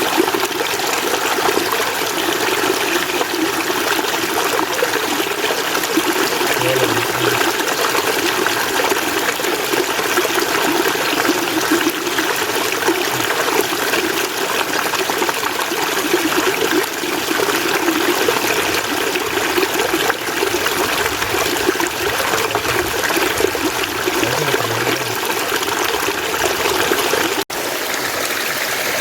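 Mountain stream water running steadily. The sound cuts out for an instant near the end.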